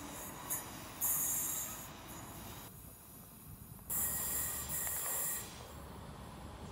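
Electric multiple-unit trains at a station: a low rumble with two bursts of high hissing squeal from wheels on rail. The sound drops away briefly near the middle, then a Class 320 approaches with a fuller rumble.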